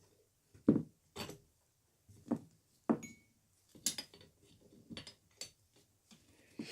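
Small metal parts and tools knocking and clinking on a workbench as a small drill press is taken apart by hand. There are about eight separate knocks, with a brief metallic ring after one about three seconds in.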